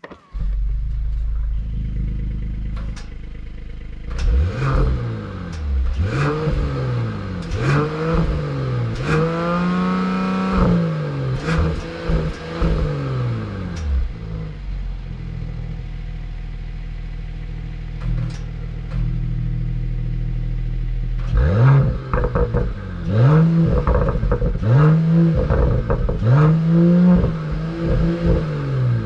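Mercedes-AMG E 53's 3.0-litre turbocharged inline-six running steadily, then revved in a string of short blips that rise and fall about once a second. It settles to a steady note midway before another string of blips, with sharp crackles among the revs.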